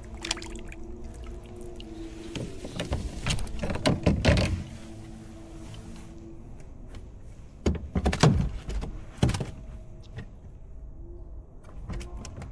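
Hollow knocks and thumps in two bunches, one about three seconds in and another about eight seconds in, over a faint steady hum.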